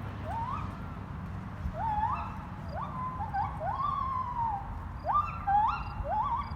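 An animal's repeated short calls, each sweeping sharply upward in pitch, about a dozen in quick irregular succession, over a steady low rumble.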